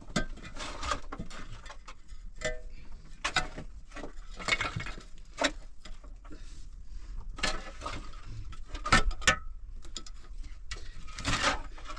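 Irregular knocks, clicks and light clatter, as of objects being handled and set down.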